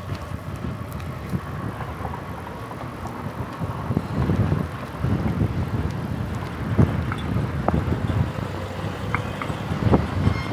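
Bicycle being ridden: a steady rumbling ride noise that grows louder in gusts from about four seconds in, with a few sharp knocks or rattles.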